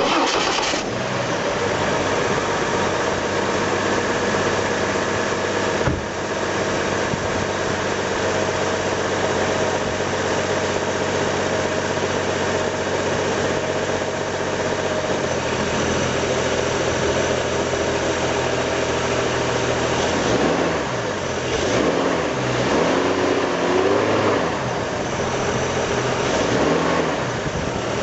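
Chevrolet Trailblazer engine starting, then idling steadily. From about twenty seconds in it is revved up and down several times.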